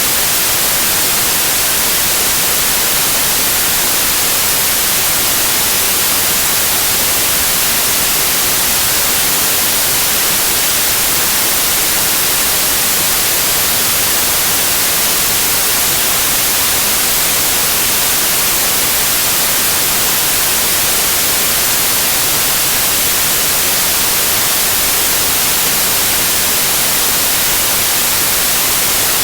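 Steady TV-static white noise: an even, unbroken hiss, brightest in the treble, that does not change.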